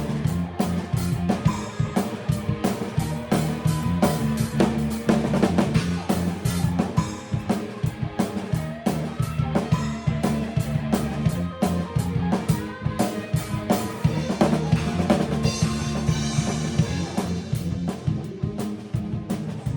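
A band playing, led by a drum kit: a dense, steady run of kick, snare and cymbal hits over sustained guitar and bass notes.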